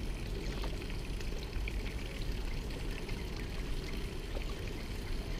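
Steady running water with no letup.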